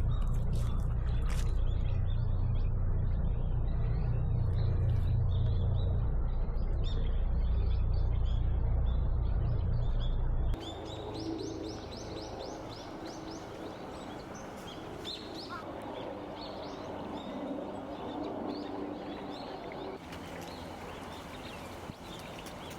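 Small wild birds chirping and calling over and over in short high notes. A heavy low rumble lies under the first half and stops abruptly about ten seconds in.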